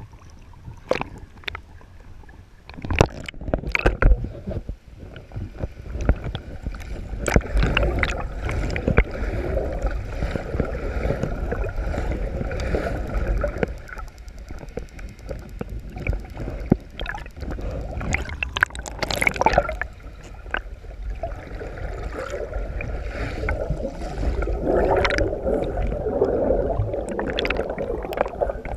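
Water sloshing and gurgling around a boat, with scattered sharp knocks and bumps.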